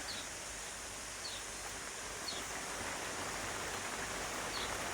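Heavy rain falling steadily, a dense even hiss. A faint short high chirp repeats every second or so.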